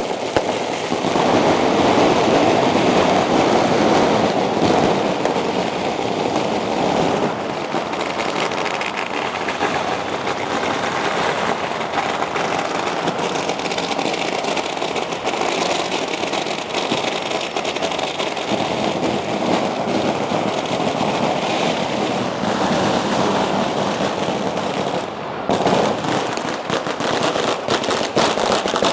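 Strings of firecrackers going off in a continuous, rapid, loud crackle, easing briefly near the end before picking up again.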